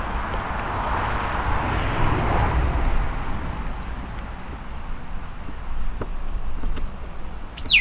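Insects chirring steadily at a high pitch, with a low rumble in the first few seconds and a short falling whistle near the end.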